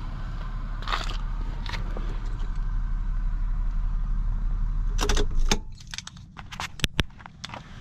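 A 1994 Lexus ES300's V6 running with a steady low rumble that slowly builds, then shut off about five and a half seconds in. Keys jangle and a few sharp clicks follow.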